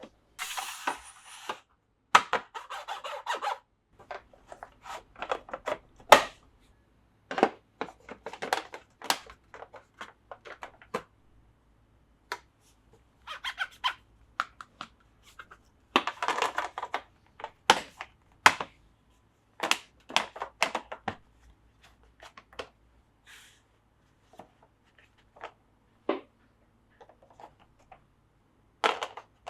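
Plarail plastic track and toy pieces being handled and fitted together: scattered sharp clicks and knocks at irregular intervals, with several short stretches of rustling or sliding noise.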